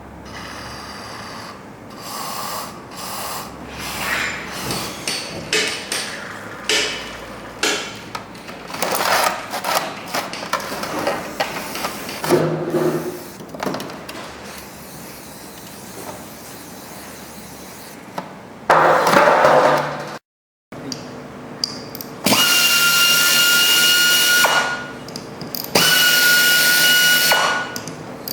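Scattered knocks and clatter of tools being handled, then a power tool running with a loud steady high whine in two runs of about three seconds each, with a short stop between them.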